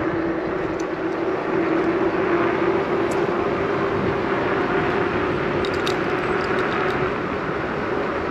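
Steady rush of wind on the microphone and rolling noise from a bicycle being ridden along a paved path, with a constant low hum and a few faint high ticks around the middle.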